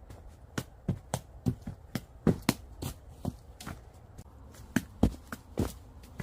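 A series of irregular sharp knocks and taps, two or three a second, some in quick pairs, the loudest about two and five seconds in.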